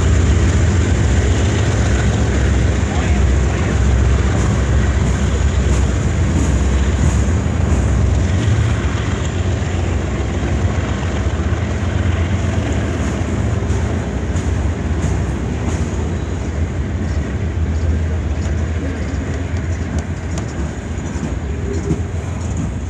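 CN freight train of boxcars rolling past: a steady, heavy rumble of steel wheels on the rails that slowly grows quieter.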